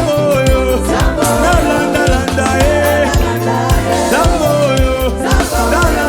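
Live gospel praise-and-worship band playing at a steady loud level: bass and drums keeping a beat under keyboards, with a bending melody line over them.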